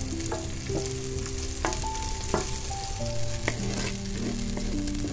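Wet ground masala paste sizzling in hot oil in a pot as it is stirred with a wooden spatula, with scattered scrapes and knocks against the pot. Soft background music plays along.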